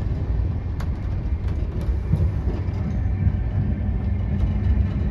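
Rajdhani Express passenger coach running, heard from inside the compartment: a steady low rumble with a few faint clicks scattered through it.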